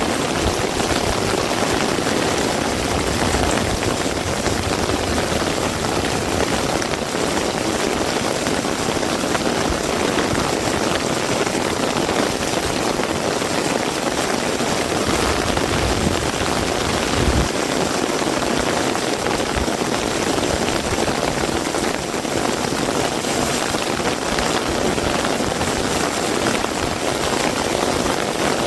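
Heavy rain falling steadily, a dense even hiss, with gusts of low rumble and a brief low thud about seventeen seconds in.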